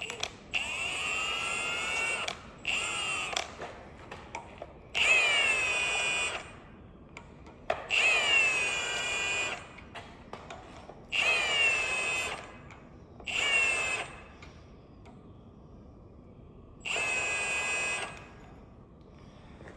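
Impact wrench spinning out already-loosened 15 mm engine bolts, its motor giving about seven separate high whines of one to two seconds each, the pitch dipping at the start of each run.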